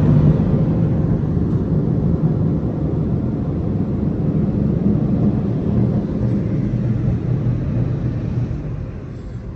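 Car wash tunnel dryer blowers running with a steady low rumble that fades away near the end.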